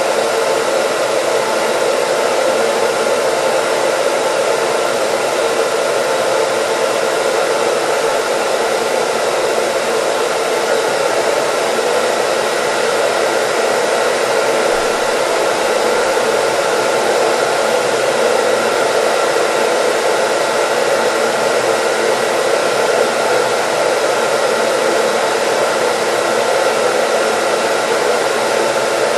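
Hair dryer blowing steadily: an even, constant whoosh of air with a faint steady motor hum in it.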